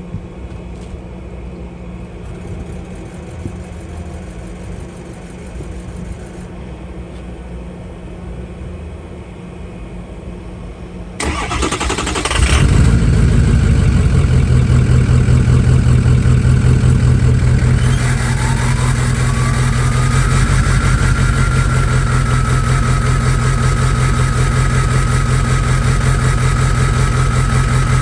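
Ford 6.0 Powerstroke turbodiesel V8 cold-started with its catalytic converter cut out and the delete pipe not yet welded in. A low steady hum comes first; about eleven seconds in the starter cranks, and the engine catches a second later and settles into a loud idle. About six seconds after it catches, a turbo whistle rises in pitch and then holds steady.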